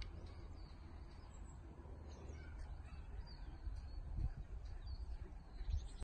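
Crow-like cawing bird calls over a steady low rumble.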